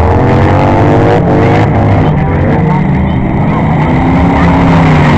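Baja off-road race car engines running hard, their pitch rising and falling as they rev up and back off, loud throughout.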